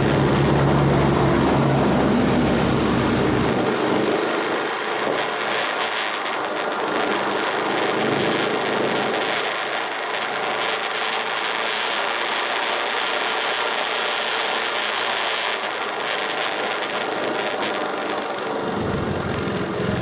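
KTM RC 390 single-cylinder engine running at speed, its note strong for the first few seconds and then fading under a steady rush of wind and road noise; the engine note comes back up near the end.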